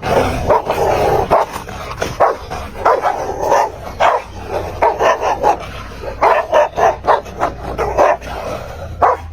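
A dog barking over and over in short, uneven barks.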